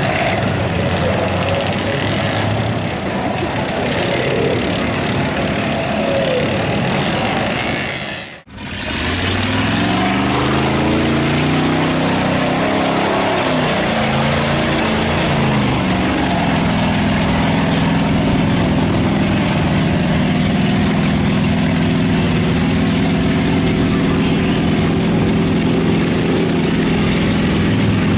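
Big mud truck engines running loud. About eight seconds in the sound cuts out for a moment. Then an engine revs up and down in pitch for several seconds before settling into a steady drone.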